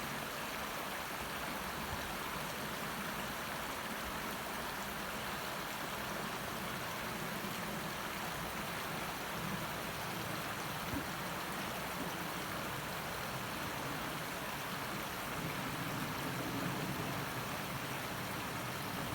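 A steady, even rushing noise with no distinct calls or knocks, like running water.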